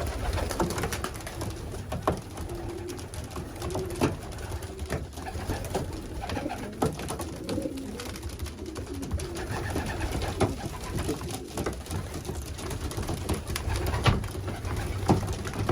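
Racing pigeons cooing in a loft, low warbling calls that overlap throughout, with scattered sharp knocks and taps among them.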